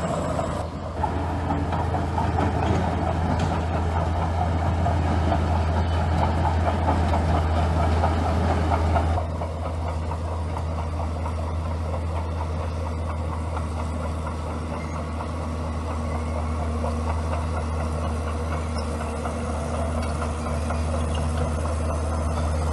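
Komatsu bulldozer's diesel engine running with a steady low drone, working hard and loud at first; about nine seconds in the engine note drops and grows quieter, then carries on steadily.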